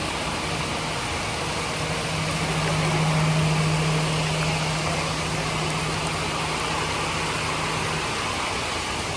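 JCB 3DX Plus backhoe loader's diesel engine running steadily at idle, a little louder for a few seconds in the middle.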